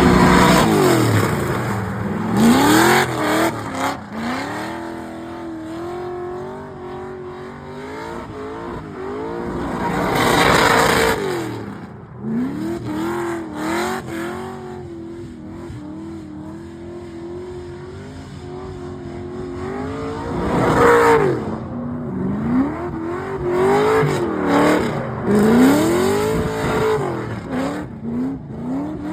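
LS3 V8 in a swapped Mazda Miata, revving hard and dropping back over and over as the car is driven hard and drifted, with several louder full-throttle pulls.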